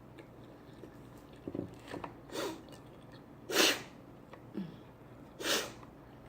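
Three short, breathy sneezes about a second or two apart, the middle one the loudest.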